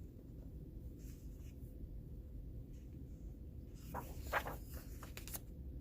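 A coloring book page being turned: a short paper rustle and flap about four seconds in, over a faint low background hum.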